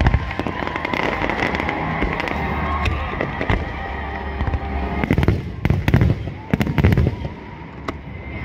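Aerial fireworks going off: a continuous crackle and rumble of launches, with sharp bangs that bunch together between about five and seven seconds in.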